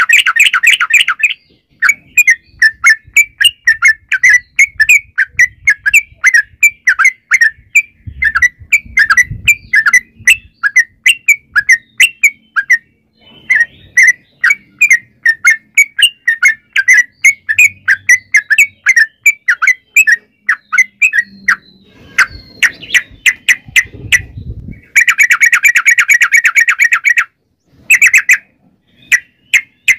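Yellow-vented bulbul singing a long, rapid song: quick chattering notes several a second, broken by dense trills at the start, about 25 seconds in and near the end.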